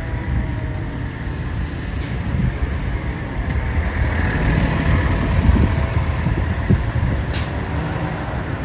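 Fire engine running steadily with a constant low rumble and hiss, with one short sharp tick about seven seconds in.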